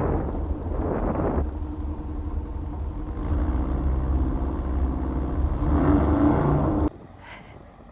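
Air-cooled Volkswagen flat-four engine running hard under load as the vehicle pushes through deep snow, its pitch rising a little near the end. The sound cuts off abruptly about seven seconds in.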